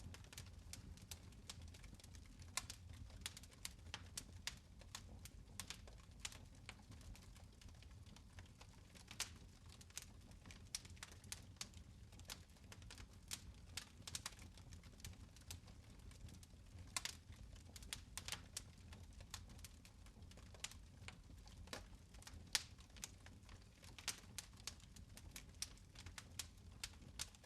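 Fireplace fire crackling quietly: irregular sharp pops and snaps, a few louder ones, over a low steady rumble.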